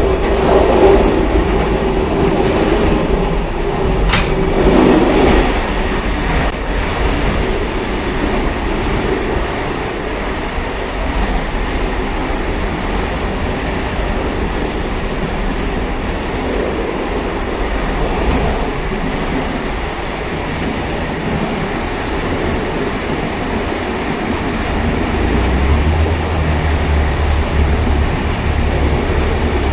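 Railcar running along the track, a steady rumble with a sharp click about four seconds in. A deeper low hum comes in near the end.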